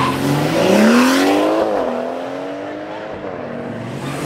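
BMW 3 Series sedan engine accelerating hard. Its pitch climbs, drops once about a second and a half in on an upshift, then climbs again more slowly as the car pulls away and fades.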